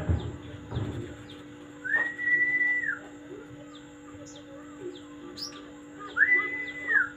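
A bird giving two long, level whistled notes about four seconds apart, each rising quickly, held for about a second, then dropping away. Short high chirps repeat steadily in the background, with a few low thumps in the first second.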